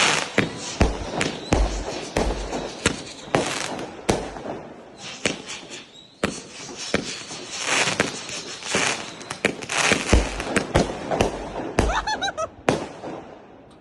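Consumer firework batteries (cakes) firing in quick succession: sharp bangs and crackle of bursting shots, with deep launch thumps every so often. A brief wavering whistle comes a little before the end, and the firing thins out at the very end.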